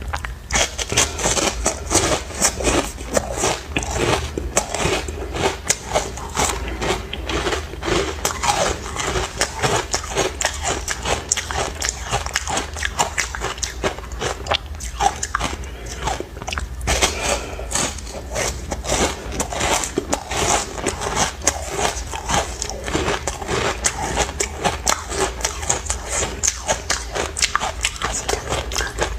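Chunks of ice coated in matcha powder being bitten and crunched, a dense, continuous run of sharp cracks and crunches.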